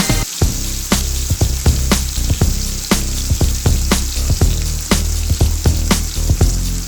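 Seer fish frying in hot oil: a steady sizzle with frequent sharp crackles and pops, over a low hum.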